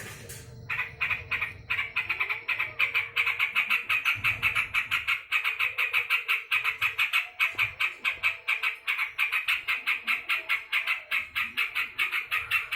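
Yellow-vented bulbul (trucukan) calling in a fast, continuous chatter of short harsh notes, about seven a second, after a brief pause at the start: the excited calling of an agitated bird.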